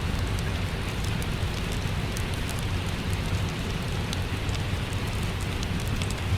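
Steady rain with a crackling wood fire: an even hiss of rain over a low rumble, with small sharp crackles scattered through it.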